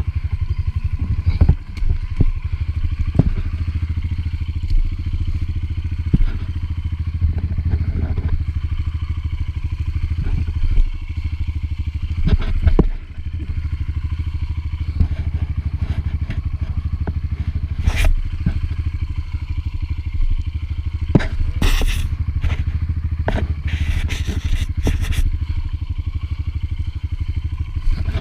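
A dirt bike's single-cylinder four-stroke engine running steadily at low revs, with scattered sharp knocks and scraping clatter, most of them in the second half.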